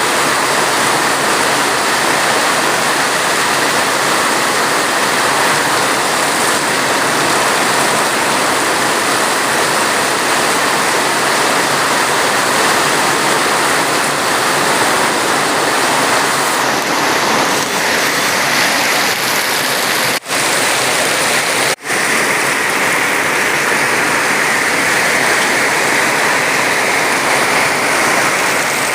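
Steady heavy rain, an even, unbroken hiss. Two split-second dropouts in the sound come a little past two-thirds of the way through.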